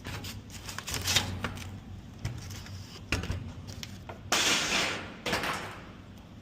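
Air filters being slid out of and into a rooftop HVAC unit's filter rack: scattered knocks and clicks, and a longer scraping rush about four seconds in.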